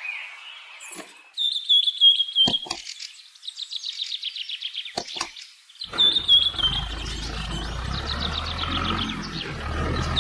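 Small birds chirping in quick warbling phrases, with a few sharp clicks. From about six seconds in, a low steady hum starts up underneath.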